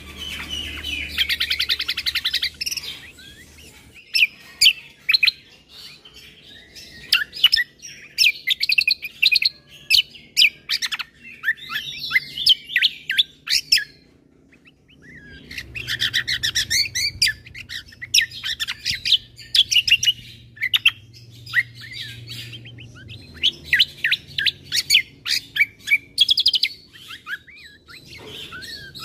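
Kecial kombo (cucak kombo) songbird singing a fast, varied song of rapid chirps and trills, with a short pause about halfway through before it resumes.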